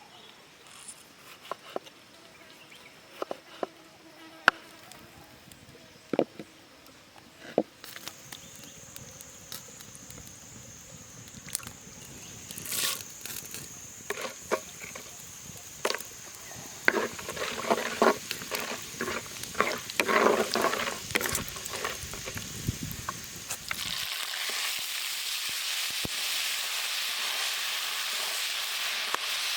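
Scattered knocks and clatter of cooking work, with a steady high insect buzz coming in about a quarter of the way through. Near the end a steady sizzle sets in as food starts frying in hot oil in a pan.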